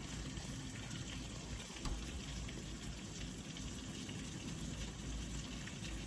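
Very heavy thunderstorm rain pouring down steadily, with one light knock about two seconds in.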